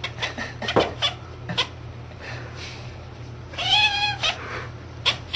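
A domestic cat meowing: one drawn-out meow that rises and falls, about two-thirds of the way in. It is preceded by a run of short sharp clicks or taps near the start.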